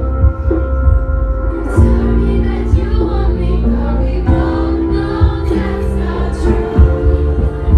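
Live pop song with female lead vocals over a heavy, steady bass line and held keyboard-like notes.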